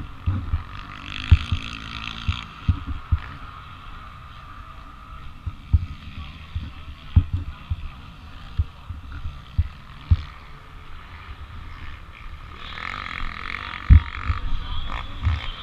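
Pit bike engine running while being ridden. It swells louder about a second in and again near the end, over frequent irregular low thumps from wind and bumps on the microphone.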